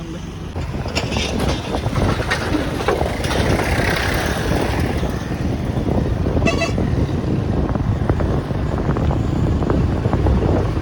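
Road traffic noise with a steady low rumble and wind on the microphone, and a short vehicle horn toot about six and a half seconds in.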